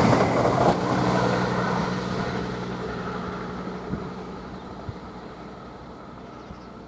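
CrossCountry Class 170 diesel multiple unit passing through and moving away. Its engine hum fades steadily.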